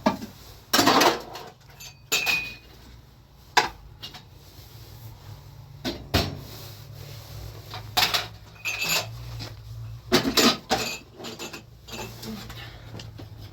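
Irregular knocks and clatter of hard objects being handled, about a dozen separate strikes, two of them followed by a brief metallic ring.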